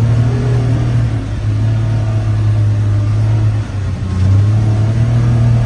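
Vehicle engine running while driving, a steady low drone that dips briefly a little over halfway through and then picks back up.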